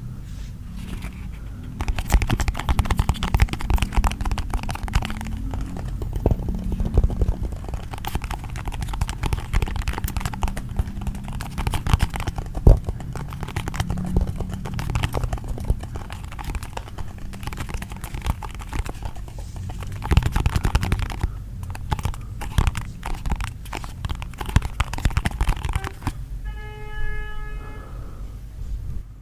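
Close-miked crackling, scratching and rubbing from feet working against a surface, as a continuous dense stream of small clicks over a low rumble. Near the end a brief pitched tone sounds.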